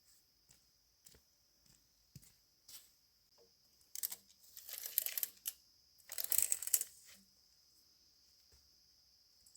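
Two bursts of rustling and crinkling, about four and six seconds in, among scattered light clicks and taps, over a steady high insect drone.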